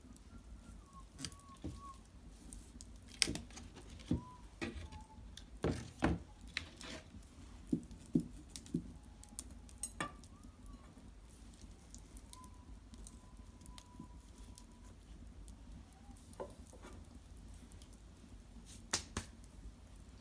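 Japanese cedar branches and bark burning in an irori hearth, crackling with irregular sharp pops that are densest in the first half. A few faint thin whistles sound through it, one held for a couple of seconds midway.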